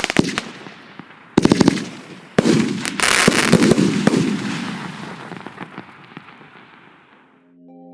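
Consumer fireworks cake firing its last volleys: two quick clusters of sharp bangs, followed by a few seconds of dense crackling that echo and die away. Soft sustained musical tones come in near the end.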